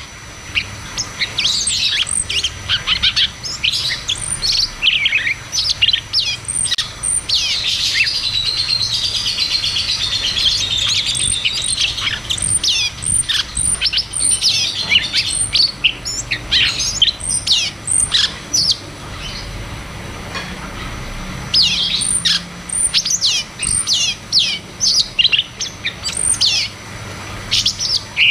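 Cucak cungkok songbird singing a busy, rolling song of rapid, sharp chirps and whistled notes. Longer warbled runs break up the chirping, one near the start of the middle stretch. Short, very high notes recur over it.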